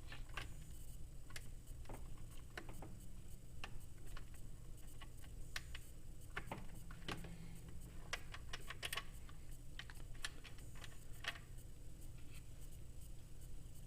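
Irregular light clicks and taps of small plastic and metal parts being handled, as a body mount clip is pushed onto the plow's mounting bolt on an RC snowcat, over a steady low hum.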